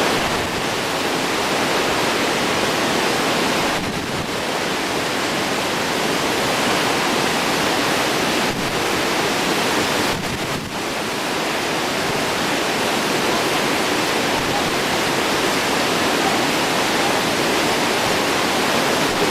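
Victoria Falls on the White River, water pouring steadily with a loud, even rushing.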